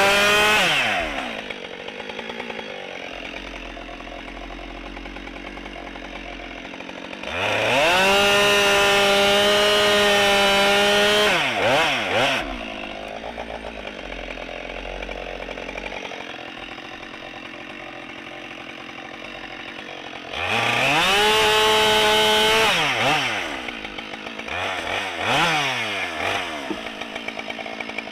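Husqvarna 572XP chainsaw revving to full throttle three times for a few seconds each, as when bucking firewood rounds, and dropping back to a low idle in between with a few short throttle blips.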